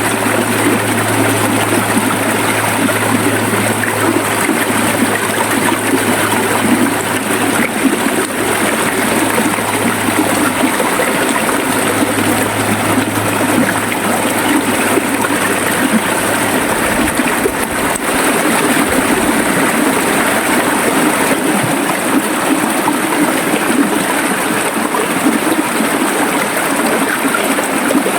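River water flowing in a steady, continuous rush. A low steady hum runs underneath and stops about two-thirds of the way through.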